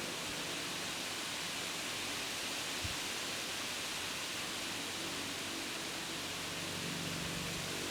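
Wind blowing through tree leaves, a steady rustling hiss.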